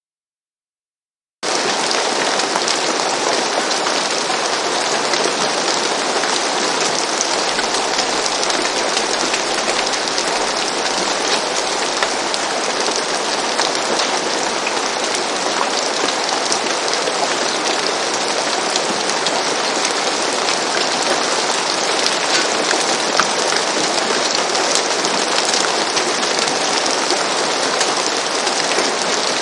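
Steady rain falling on a roof, a dense even patter that starts suddenly out of total silence about a second and a half in.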